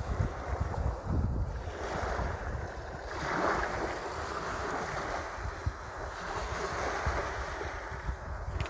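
Sea surf washing in, swelling and easing in surges, with wind buffeting the microphone.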